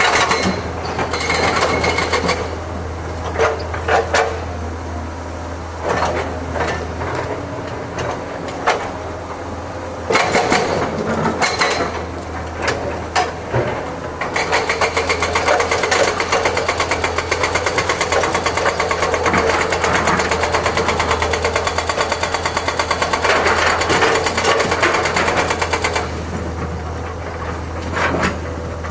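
Excavator's diesel engine running steadily under load, with scattered clanks and knocks from the working machine. From about fourteen seconds in to a couple of seconds before the end, a dense, fast rattle lies over the engine.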